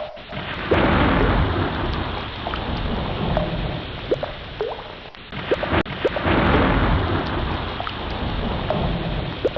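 Ocean ambience: a rumbling rush of water that swells and ebbs twice, with short rising bubbly chirps scattered through it.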